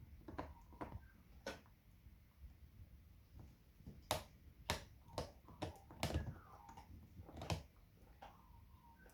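Outdoor wood fire crackling, with about a dozen irregular sharp pops, the loudest bunched in the second half. Faint bird calls sound in the background.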